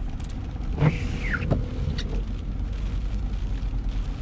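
Squeaky windshield wipers: one sweep about a second in gives a short falling squeal over the steady road and rain noise inside the car. The blades have dried out from the car sitting for months and need replacing.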